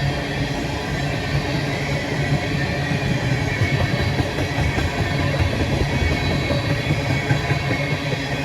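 A train rolling past, a steady rumble of wheels on the rails.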